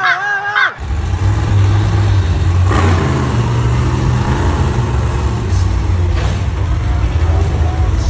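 Monster truck engine running loud and steady, cutting in sharply under a second in after a brief high voice.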